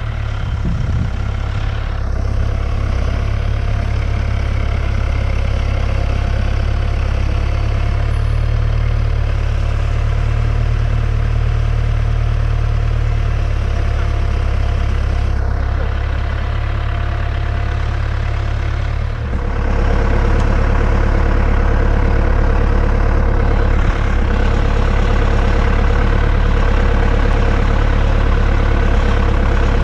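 Tractor engine idling steadily. About two-thirds of the way in it gets a little louder, with a steady higher hum added.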